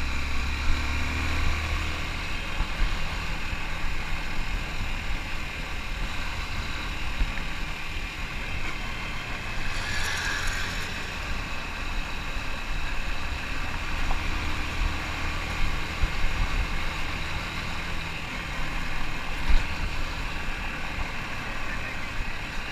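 Motorcycle engine running steadily while riding a dirt road, under a constant noise of wind and tyres. A brief louder patch comes about ten seconds in, and a single sharp knock about three-quarters of the way through.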